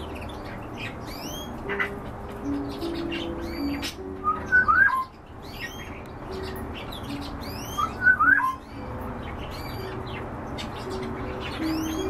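Birds chirping and calling, with many short high chirps and two louder bursts of calls about four and eight seconds in, over background music of slow, held low notes.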